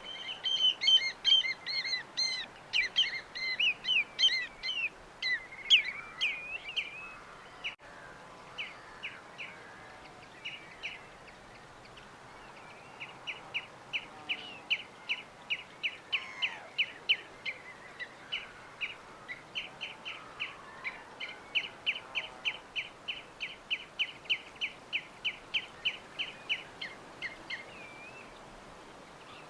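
Birds chirping: a busy tangle of varied chirps and trills for the first several seconds, then, after a quieter stretch, one bird repeating a short chirp about three times a second for some fifteen seconds.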